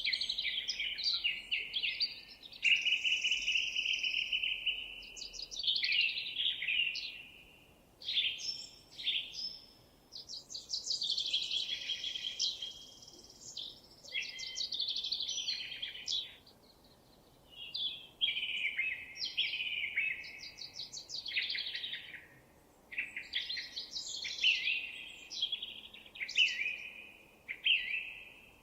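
A songbird singing a long run of varied, warbling phrases made of quick trills and clear whistled notes, with short pauses between phrases.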